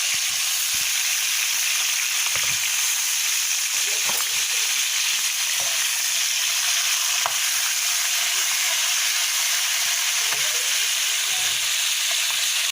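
Food deep-frying in hot oil, a loud, steady sizzle with a few faint knocks scattered through it. It starts and stops abruptly.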